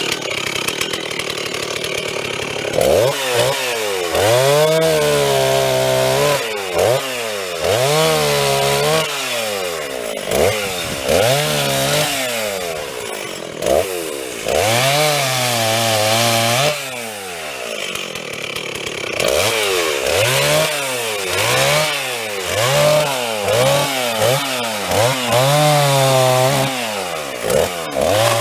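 Stihl chainsaw running at full throttle, then its engine pitch repeatedly dropping and climbing back as it is worked through wood, about a dozen times.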